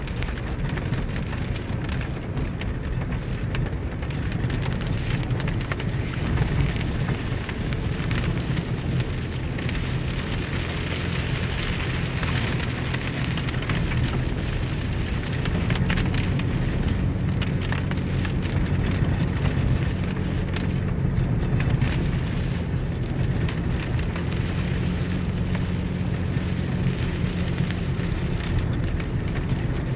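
Car driving on a wet road in the rain: a steady low engine and tyre rumble under an even hiss of rain and spray.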